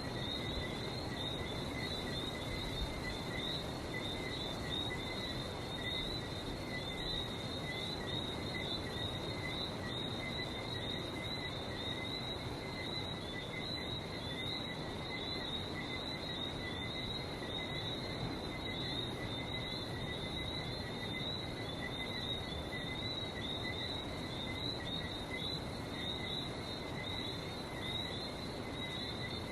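A dense night chorus of Barbados whistling frogs (Johnstone's whistling frog), many short high chirps overlapping without a break, over a steady low rush.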